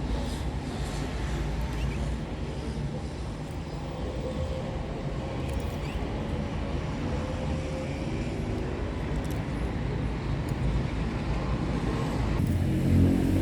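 Steady low rumble of background noise, like distant traffic, growing louder near the end.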